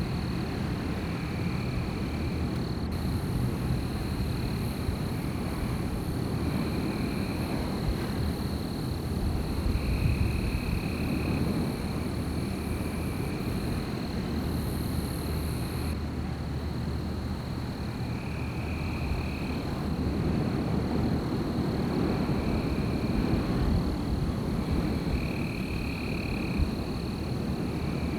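Night outdoor ambience: wind blowing in slow gusts, with a steady high-pitched drone and short high calls, each about a second long, repeating every few seconds over a low distant hum.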